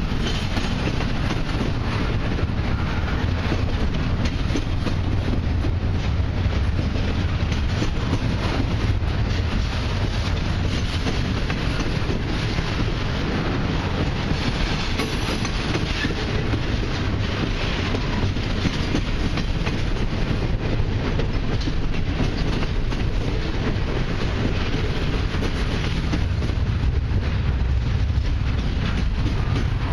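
Double-stack intermodal container train's loaded well cars rolling past, a steady heavy noise of steel wheels on rail with rapid clicking and clattering from the wheels.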